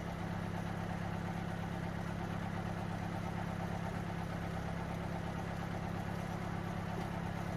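Tractor engine running steadily at idle, with an even hum and no revving.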